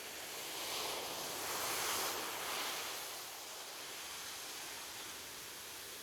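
Ocean surf: a wave breaks and washes in, swelling over the first two seconds, then easing back into a steady hiss.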